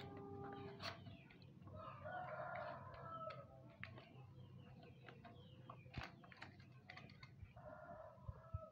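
Faint bird calls twice, about two seconds in and again near the end, over scattered light clicks and taps from the metal stem and handlebar clamp of a children's balance bike being handled.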